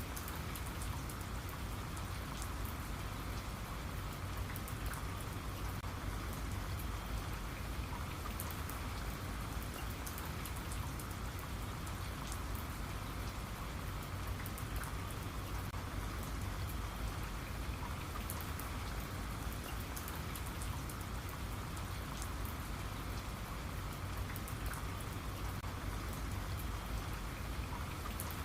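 Steady rain falling, with many fine patters of individual drops striking a surface.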